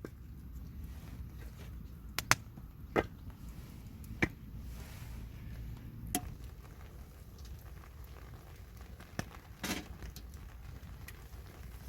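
Campfire burning with a low steady rumble and a few sharp, isolated pops and snaps from the burning wood.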